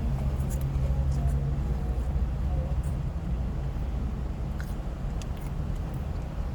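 Steady low rumble, with faint scattered soft clicks over it as someone chews a brownie.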